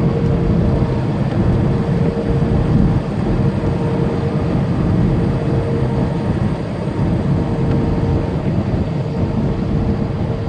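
Tractor-trailer's engine heard inside the cab: a steady low rumble with a faint constant whine above it.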